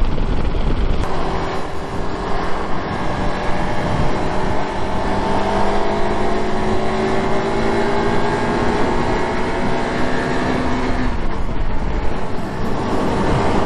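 Car being driven on a highway: steady road noise under an engine note that rises slowly for several seconds as the car picks up speed, then drops away about eleven seconds in.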